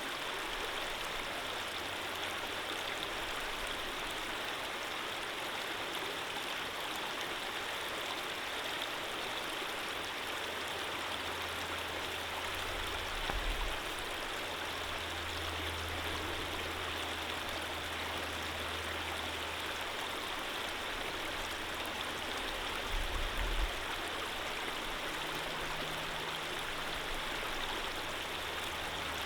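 Steady, unbroken rush of running water from a stream. A faint low rumble comes and goes underneath, with two brief low thumps, a little before halfway and again about three quarters through.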